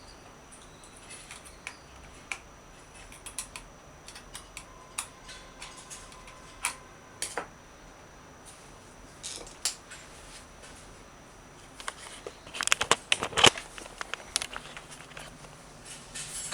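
Scattered small clicks and taps of hands handling small hard parts during an amplifier repair, with a denser, louder run of clatter about twelve to fourteen seconds in.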